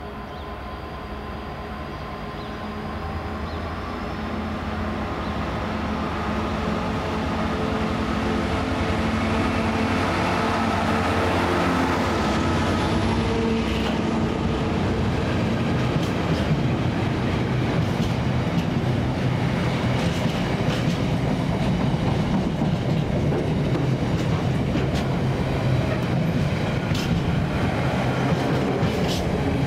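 Diesel train approaching and passing, its engine growing louder over the first several seconds. It then runs loud and steady, with wheels clicking over rail joints from about halfway through.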